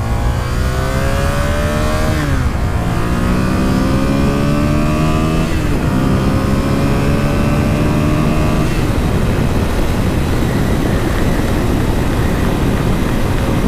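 Honda Sabre's 750cc V4 engine accelerating through the gears: the engine note rises three times, dropping sharply at each of two upshifts about 2 and 5.5 seconds in. After about nine seconds the engine tone sinks into a steady rush of noise.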